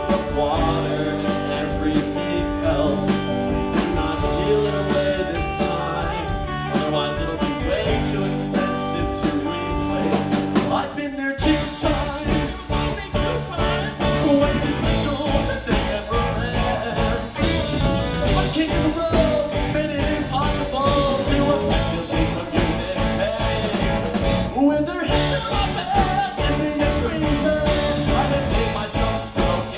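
Live rock band playing an instrumental passage at full volume. The band stops for a moment about eleven seconds in, then comes back in fuller.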